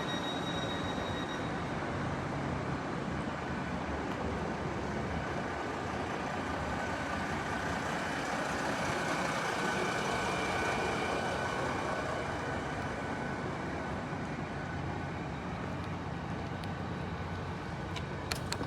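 Steady running noise inside an IET (Intercity Express Train) carriage: a continuous rumble of the train on the track, with a faint whine in the middle and a few sharp clicks near the end.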